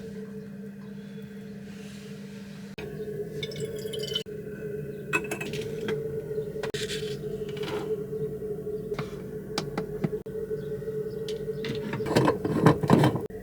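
A steady low hum with scattered clicks and knocks, and a burst of loud clattering about a second before the end.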